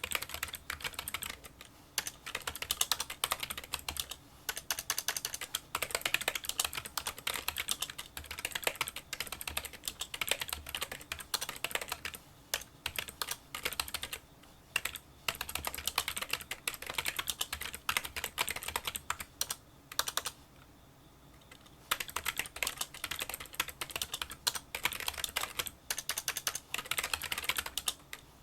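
Rapid touch-typing on a Kinesis Freestyle Solo split keyboard with membrane key switches: a dense run of small, light key clicks, quieter than a typical membrane keyboard. There are a few short pauses, the longest about 20 seconds in.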